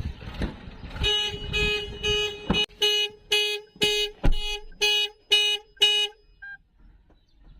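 2025 Toyota Wigo G's anti-theft alarm going off, its horn beeping in short, even pulses about twice a second, then cutting off about six seconds in. A few knocks are heard among the beeps.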